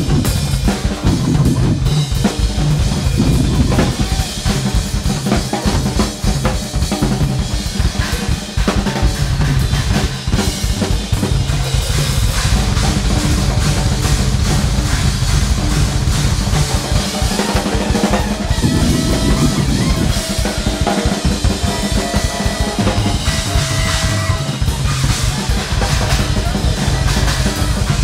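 Large free-jazz big band playing live, with a busy drum kit driving the rhythm and a steady bass line underneath.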